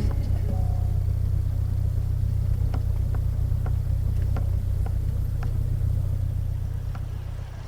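A car running with a steady low rumble, with a few faint clicks, fading out near the end.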